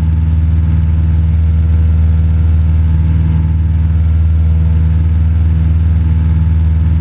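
Cessna 172 Skyhawk's piston engine and propeller running steadily at cruise power, a loud even drone heard inside the cabin.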